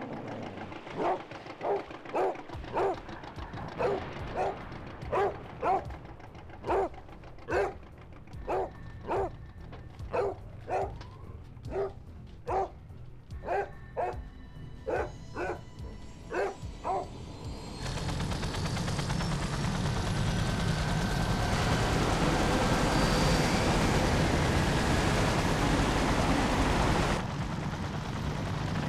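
A dog barking over and over, a short call every half second or so, for about seventeen seconds. Then a steady low rumble of helicopter rotors comes in and grows louder.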